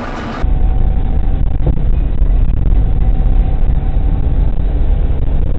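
Steady low rumble of a car on the move, as picked up by a dashcam: road and engine noise. It begins abruptly about half a second in, replacing a brighter, hissier car sound.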